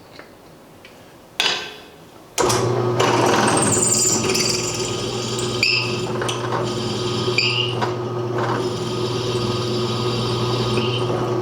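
A sharp knock, then an electric drill starts and runs steadily, its bit cutting into a cutting-oiled broken bolt in a tractor's power takeoff housing, with a few short squeals as the bit bites.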